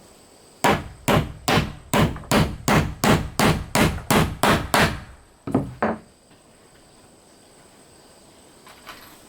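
Hammer striking wood: a steady run of about eleven blows, roughly two and a half a second, then a short pause and two more quick blows.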